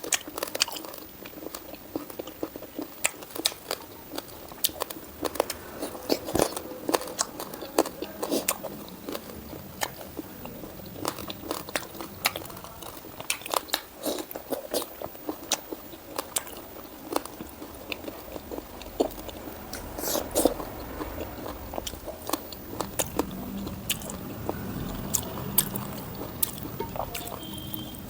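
A person chewing and biting food: a steady stream of wet mouth clicks and crunches, from eating pork with leafy greens and rice.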